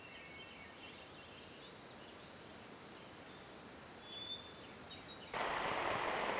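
Faint outdoor ambience with a few brief high bird chirps. About five seconds in it gives way suddenly to a louder, steady hiss of rain falling on leaves.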